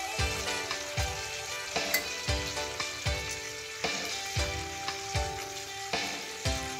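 Chicken leg steak frying and sizzling in hot oil in a pan, stirred and turned with tongs. Background music with a steady beat plays over it.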